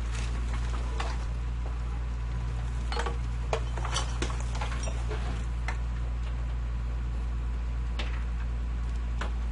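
Garbage truck engine idling with a steady low drone, with scattered light clanks and knocks over it.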